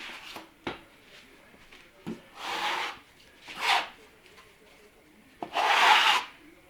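Steel spatula scraping across a wall, spreading putty over fiberglass mesh in three rasping strokes, the last one the longest and loudest, with a few small taps of the blade in between.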